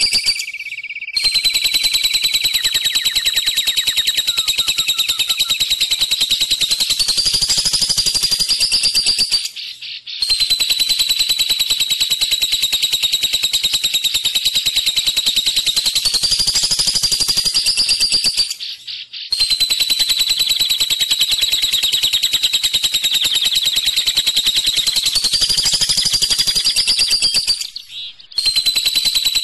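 Lovebird 'ngekek': a long, unbroken, rapid high-pitched chattering trill. It comes in phrases of about eight to nine seconds, each rising slightly in pitch near its end, with three brief pauses between them.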